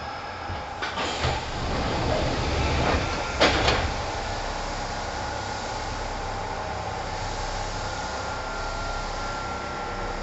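Onboard running sound of a Kintetsu 1010 series electric train: the rumble grows over the first few seconds with two sharp clacks, the louder one about three and a half seconds in, then settles into an even, steady noise.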